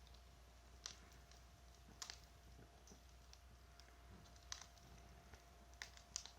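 Wood crackling in a bonfire: a few sharp pops at irregular intervals over a quiet background.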